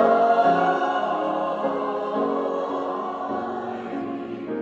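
Music: a choir singing held chords that change about every half second, slowly growing quieter.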